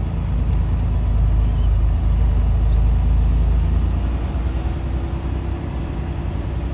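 Semi-truck's diesel engine running under light load while manoeuvring slowly; the engine note swells over the first few seconds, then shifts and eases off about four seconds in.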